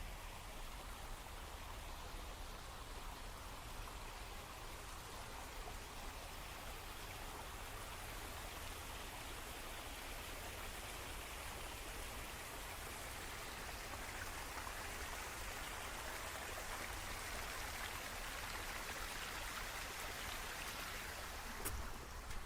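Steady rain falling, an even hiss that swells a little in the second half, with one sharp tick near the end.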